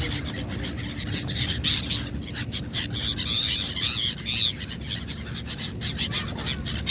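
A flock of gulls calling, many quick high calls overlapping and thickest near the middle, over the steady low rumble of a boat's engine.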